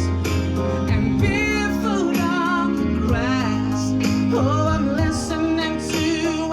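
A song played by a band with a singer. A sung melody with vibrato runs over sustained bass notes and a steady cymbal beat.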